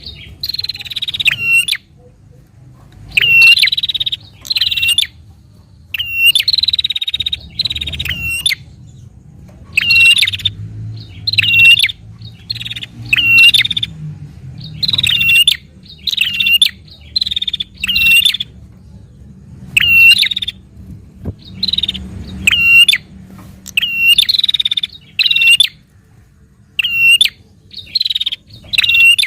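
Prinia (prenjak) calling in loud, rapid bursts of sharp, high chattering notes, the bursts repeating every second or two with short pauses between.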